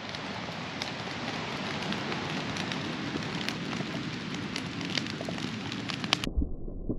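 Wood campfire burning with a steady hiss and many sharp crackles and pops. About six seconds in, the sound cuts off abruptly to a muffled low rumble.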